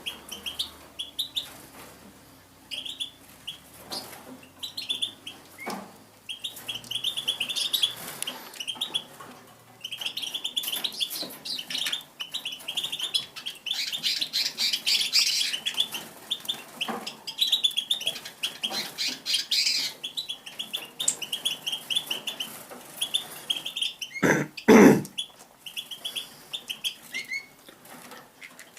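A caged songbird giving long series of quick, high chirps, on and off throughout. About 24 seconds in there is a sudden loud thump.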